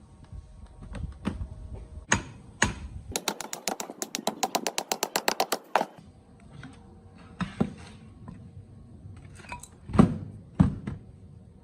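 Hand tools working on metal steering parts: scattered sharp clicks and knocks, with a fast run of even clicks, about eight a second, for nearly three seconds in the middle, and two louder knocks near the end.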